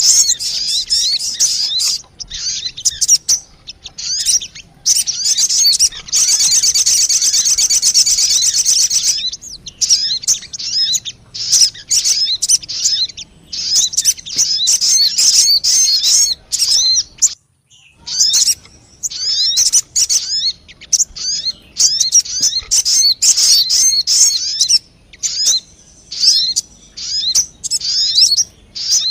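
Sogon birds calling: rapid, high-pitched chirps and twittering in quick phrases, with a longer unbroken trill about a quarter of the way in. This is a lure call (suara pikat) of the kind played to attract the same species.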